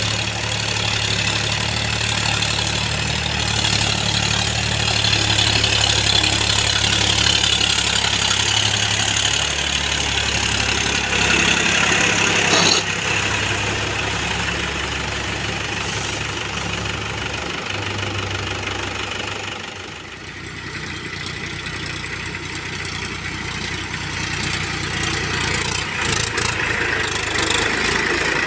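Diesel engine of heavy earth-moving machinery running steadily. Its note and loudness drop about twenty seconds in, then pick up again.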